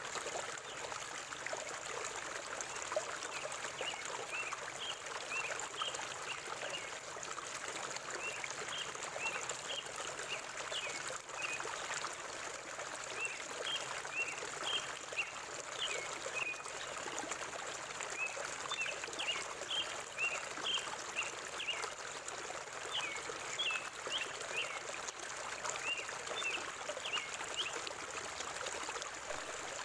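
River water flowing steadily through a forest, with a bird giving runs of short, high chirps over it from a few seconds in.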